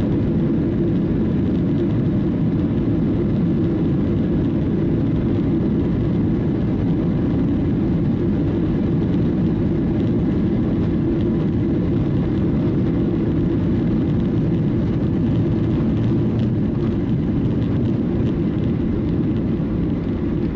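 Steady cabin noise of a Boeing 737-900ER airliner: a constant low rumble of jet engines and airflow, unchanging throughout.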